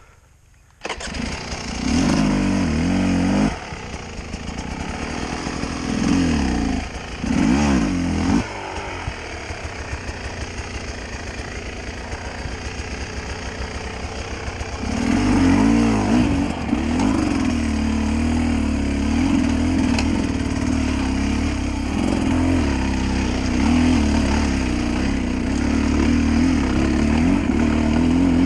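Dirt bike engine started about a second in, then revved in a few short blips and idling, and from about fifteen seconds in pulling away under throttle, its pitch rising and falling as the bike is ridden up a grassy slope.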